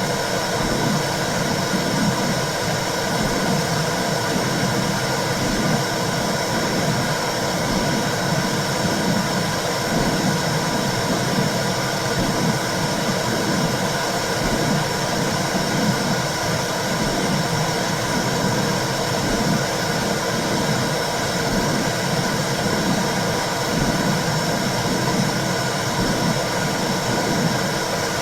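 Womb sound for soothing babies: a steady low rushing noise with a slow, regular whooshing pulse like a heartbeat heard through the body.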